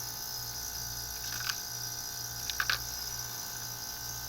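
Heat pump air-conditioning system running with a steady hum and a low drone that pulses about twice a second, with a few light clicks about a second and a half and two and a half seconds in. The system is running a cycle that keeps ending in a low-pressure lockout, which the technician believes is not a real low-pressure problem.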